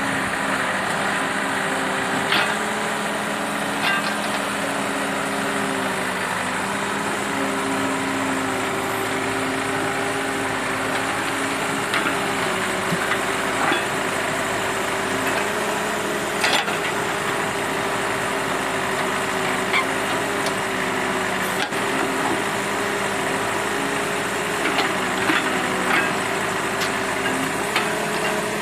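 L&T Case 770 backhoe loader's diesel engine running steadily, with scattered short knocks and clanks.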